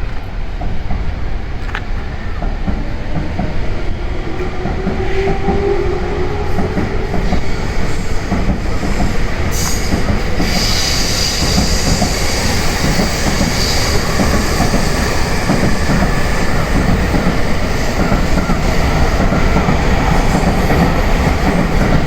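A Tokaido Line electric commuter train pulling out of the station, its traction motors giving a rising whine as it accelerates. The wheels rumble and clatter over the rail joints as the cars pass, getting slightly louder toward the end.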